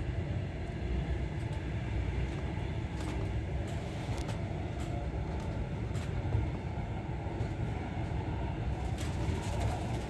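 Passenger train running along the line, heard from inside the carriage: a steady low rumble with faint clicks now and then.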